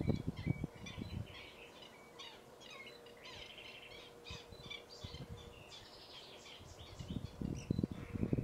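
Small birds chirping and twittering, with a quick trill about three seconds in. Low rumbling thumps come in the first second and again near the end.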